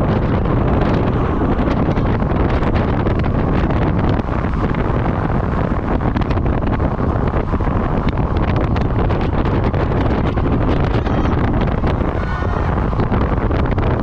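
Steady, heavy wind buffeting on the microphone of a camera riding on a road bike at speed.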